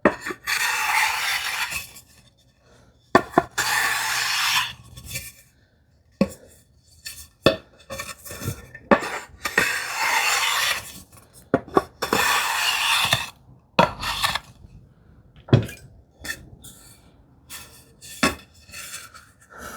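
Edges of a planed wooden board being chamfered with a hand plane to break the corners: four long hissing shaving strokes, with knocks and clicks of the tool and wood between them.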